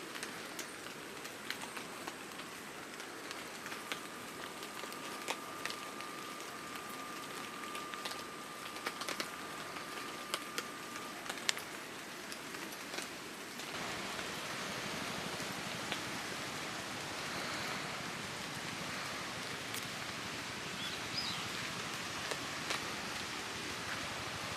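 Rain falling steadily, with scattered sharp ticks and pops of drops landing close by. About halfway through, the sound changes abruptly to a louder, denser, even rain hiss.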